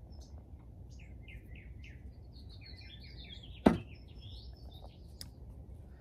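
Small songbirds chirping in quick repeated phrases over a low, steady background rumble. A single sharp knock, the loudest sound, comes a little past halfway.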